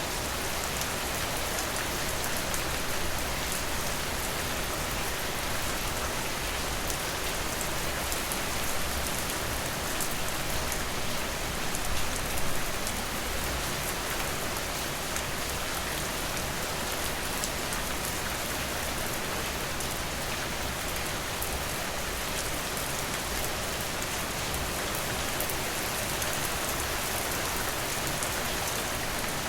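Steady rain falling: an even hiss with scattered drop ticks, briefly a little louder about twelve seconds in.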